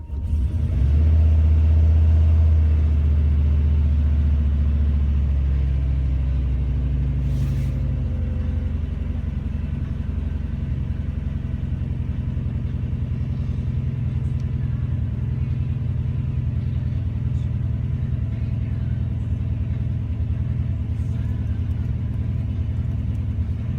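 Turbocharged LS-based V8 running on a cold start in freezing weather. It runs fast and loud for the first few seconds, then the idle drops and settles into a steady idle. The cold-start fuelling is still being tuned.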